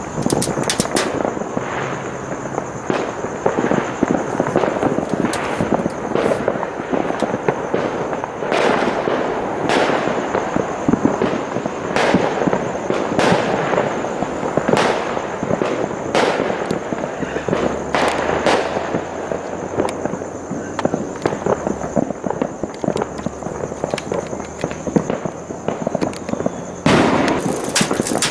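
Many private fireworks and firecrackers going off at once around the neighbourhood: a dense, continuous crackle broken by frequent sharp bangs. A steady high-pitched whine runs underneath.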